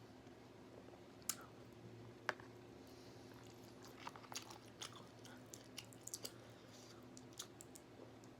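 Quiet close-up eating sounds: chewing with a few sharp mouth clicks and a run of small wet smacks in the middle, over a steady low hum.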